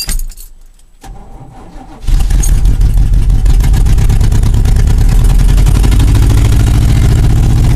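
1987 GMC 2500's carbureted 350 small-block V8 turning over and catching about two seconds in, then running steadily and loudly with a fast, even exhaust pulse.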